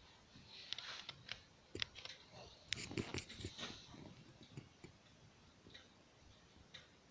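Wood fire crackling behind the glass door of a fireplace: faint, irregular pops and clicks, thickest about three seconds in.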